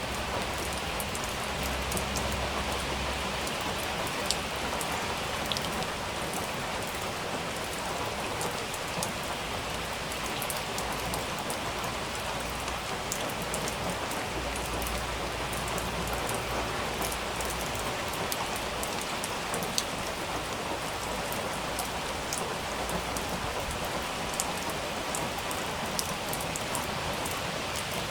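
Steady rain falling, a dense even patter with individual drops ticking sharply through it.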